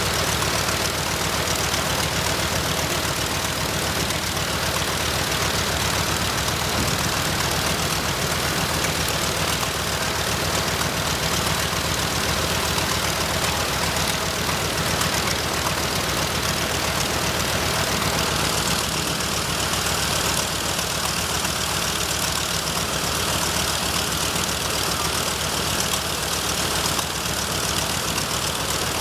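The Nakajima Sakae 21 fourteen-cylinder twin-row radial engine of a Mitsubishi A6M5 Zero Model 52 fighter running steadily on the ground.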